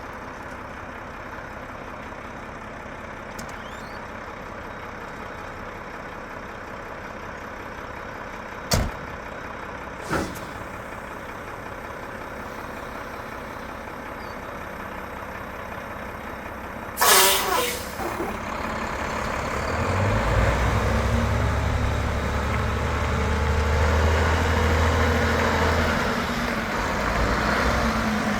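Truck engine idling, with two sharp clicks, then a loud hiss of air brakes being released about two-thirds of the way through. After that the engine grows louder with a deep rumble.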